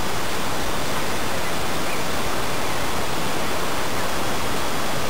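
Steady, even rushing noise with no change in level, with no voice.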